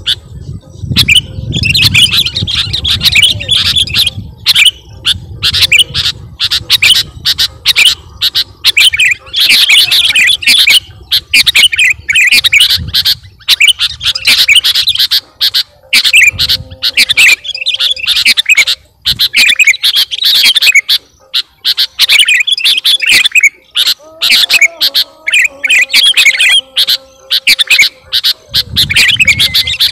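Sooty-headed bulbul (kutilang) singing loudly and energetically, in quick runs of notes a few seconds long separated by short pauses.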